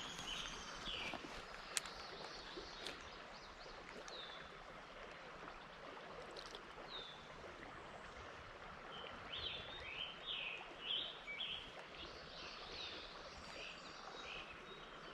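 Faint river ambience: a steady wash of flowing water with small birds chirping now and then, most often from about nine to twelve seconds in. Two light clicks about two and three seconds in.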